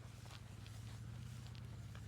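Footsteps through field grass: faint, short crunching steps every half second or so, over a steady low hum.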